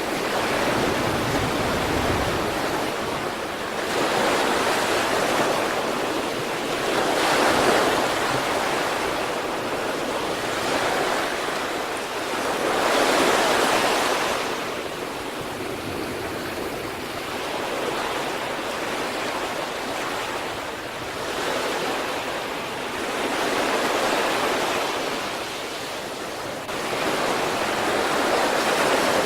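Sea waves breaking and washing on the shore, a steady surf that swells every few seconds as each wave comes in.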